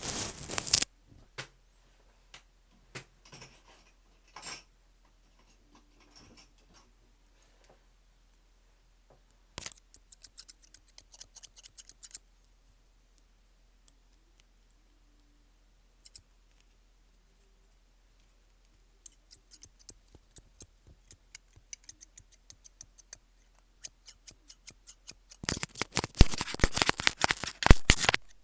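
Close-miked ASMR trigger sounds: crisp clicks and crackles. There is a brief noisy burst at the start, then scattered ticks, then a cluster of clicks. After that the clicking grows denser and is loudest in a rush of rapid clicks near the end.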